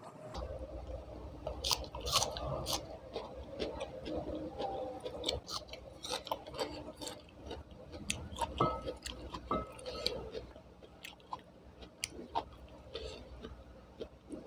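Close-miked chewing of food eaten by hand, a steady run of small wet mouth clicks and smacks.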